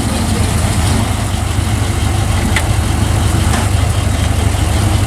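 A motor vehicle engine idling steadily, a continuous low rumble.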